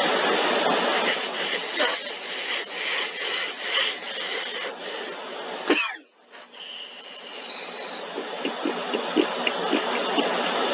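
Belanger car wash tunnel equipment spraying water over the car, a steady hissing rush that drops out briefly about six seconds in, then comes back with a few light knocks.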